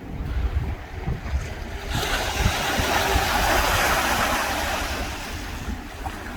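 Ocean surf on a sandy beach: a wave breaks about two seconds in and its wash runs up the sand, fading near the end, over a steady rumble of wind on the microphone.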